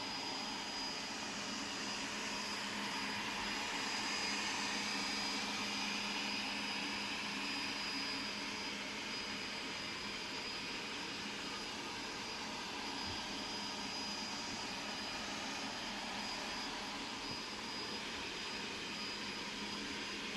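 360 robot vacuum cleaner running as it drives around: a steady motor whir with a thin high-pitched whine over it.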